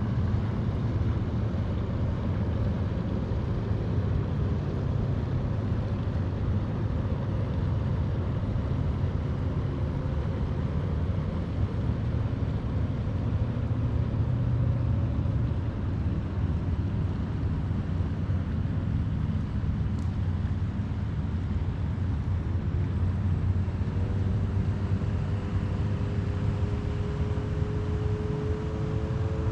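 Steady low rumble of distant motor engines. Near the end a second engine note comes in and slowly rises in pitch.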